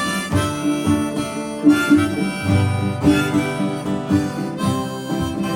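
Harmonica playing a melody over strummed acoustic guitar, the instrumental opening of a folk song just after a count-in.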